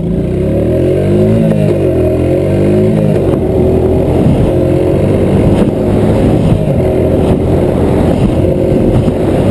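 Small four-stroke single-cylinder engines of minibike-class ATVs racing at full throttle. Their pitch climbs and drops back several times in the first three seconds as they shift up through the gears, then holds at steady high revs.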